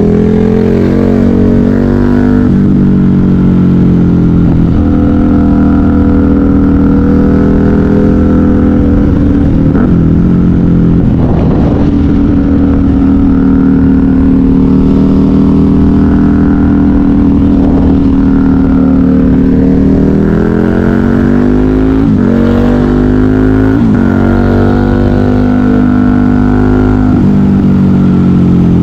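KTM 990 Super Duke R's V-twin engine through a custom exhaust, ridden hard: the revs climb under acceleration, drop away at gear changes and on rolling off for corners, and climb again, several times over.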